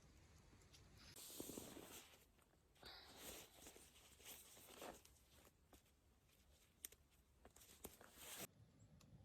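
Faint rustling and handling noises in three short spells, with a few light clicks between them.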